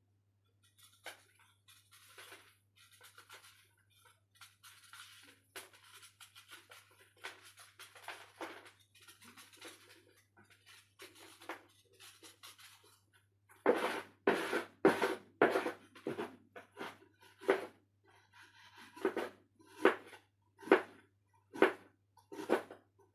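Lumps of dry red dirt being crumbled and crushed: soft, gritty crumbling at first, then, a little past halfway, a run of louder, sharper crunches at about one to two a second.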